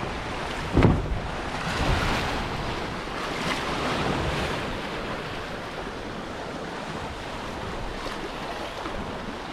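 Sea water rushing and sloshing past a sailboat's hull, with wind on the microphone. There is a single sharp thump about a second in, and the rush swells for a few seconds after it before settling to a steady wash.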